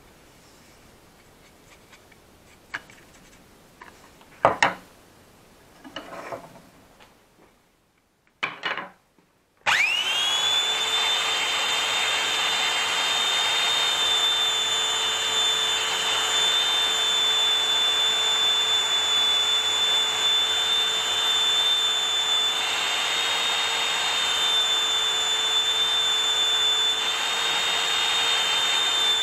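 A few separate knocks and handling sounds, then about ten seconds in an electric power tool switches on. It spins up quickly and runs at a steady speed with a high whine for the rest of the time.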